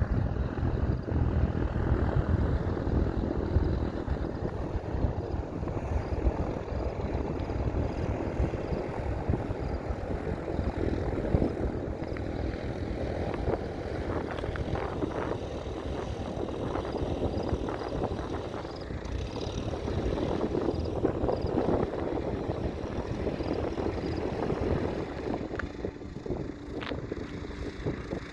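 Propeller aircraft engine droning steadily, mixed with gusty wind buffeting the microphone.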